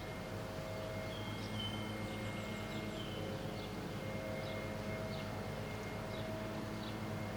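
Steady hum of a distant motor, with short high bird chirps repeating about once or twice a second and a brief held whistle early on.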